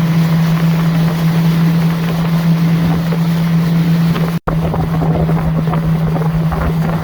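Small boat's engine running steadily under way, with a constant low hum, water and wind on the microphone. The sound cuts out abruptly for an instant about four and a half seconds in.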